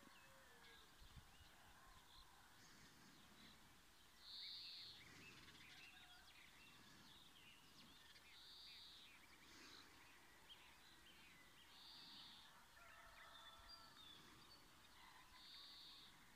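Faint outdoor ambience with birds calling: one short high call repeats four times, roughly every four seconds, among scattered faint chirps.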